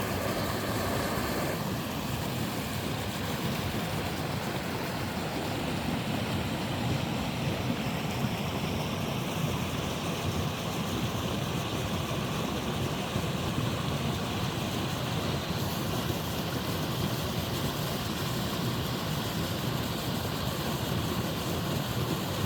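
A mountain stream rushing and splashing steadily over rocks in a small waterfall, a continuous water noise whose tone shifts slightly about two seconds in.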